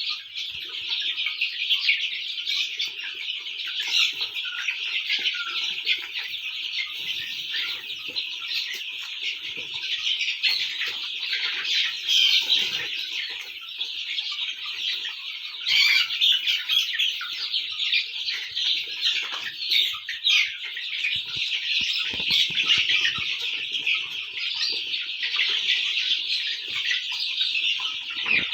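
A large flock of young chickens peeping and chirping all at once in a continuous, dense chatter, with an occasional lower cluck. A few short knocks come about two-thirds of the way through.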